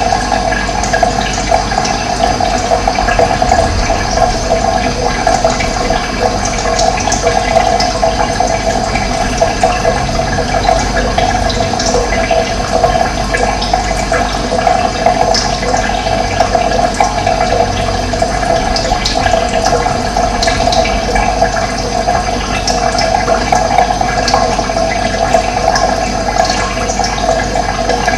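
Steady rush of running water, with scattered short bird chirps above it.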